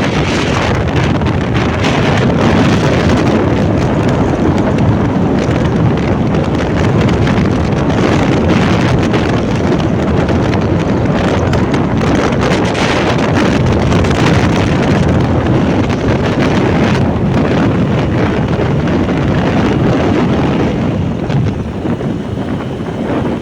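Wind buffeting the microphone of a moving motorbike, with the bike's running noise underneath. The noise is loud and steady and eases a little near the end.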